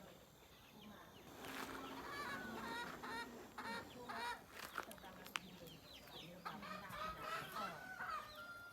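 Chickens clucking, a faint scatter of short repeated calls.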